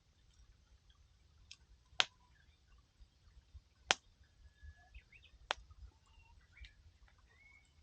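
Burning firewood crackling, with three sharp pops about two, four and five and a half seconds in and fainter ticks between. Faint short bird chirps sound in the background.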